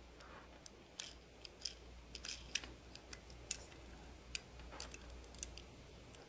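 Faint, irregular small clicks and taps from a diecast toy car being handled and turned over in the hands, over a steady low hum.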